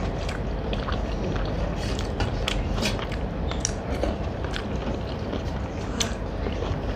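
Close-up eating sounds: chewing with wet mouth clicks and smacks, many short irregular ones, over a steady low background noise.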